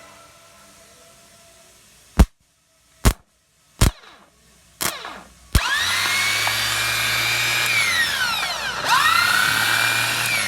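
A few sharp clicks, then an electric motor starts and runs at high speed with a loud, steady whine. Its pitch falls away and climbs back up twice.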